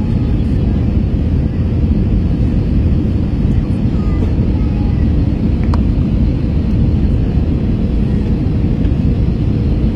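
Steady airliner cabin noise on final approach: engine and airflow rumble inside an Airbus A321, with a brief click about six seconds in.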